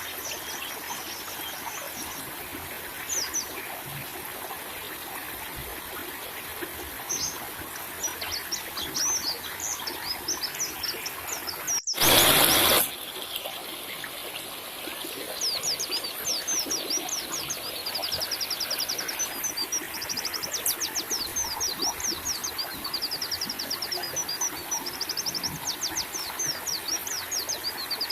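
White-eyes (pleci) chirping and singing quick high trills over a steady trickle of running water, as in a water-therapy track. The trills come thicker and faster in the second half, and a brief loud burst of noise cuts in about twelve seconds in.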